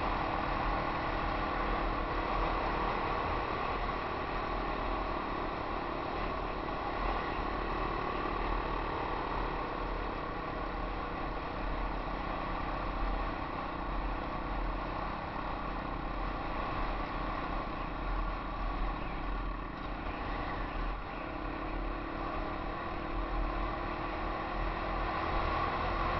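Yamaha XT 250 single-cylinder four-stroke trail bike engine running steadily at trail-riding speed, its note wandering a little with the throttle, mixed with wind rumble on a helmet-mounted microphone.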